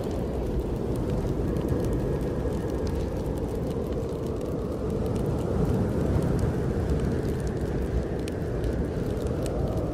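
Snowstorm wind blowing in a steady low rush that swells a little midway, with a log fire crackling in a fireplace in scattered sharp pops.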